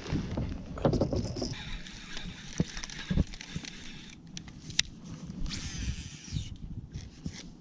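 Knocks, clicks and rustles of fishing gear being handled in a kayak, with a steady whirring sound twice: a longer stretch from about a second and a half in and a shorter one near the end.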